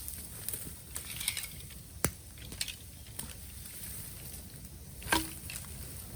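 Bamboo burning in an open fire, crackling with scattered small snaps and two sharp pops, about two seconds in and, loudest, about five seconds in.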